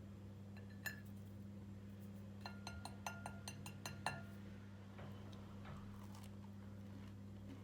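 Cutlery clinking lightly against tableware: one clink, then a quick run of about ten ringing clinks, roughly six a second, over a steady low hum.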